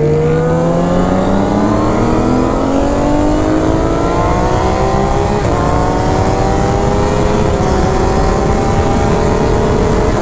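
Sport motorcycle engine under hard acceleration, its pitch climbing steadily. About five and a half seconds in the pitch dips briefly as it shifts up a gear, then keeps rising.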